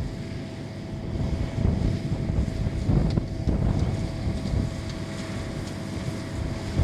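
Wind buffeting the microphone in an uneven low rumble, with a faint steady hum beneath it.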